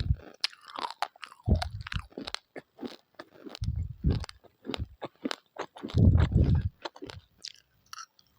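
Uncooked rice grains being chewed, crunching in many sharp irregular cracks, with a few deeper dull thuds among them.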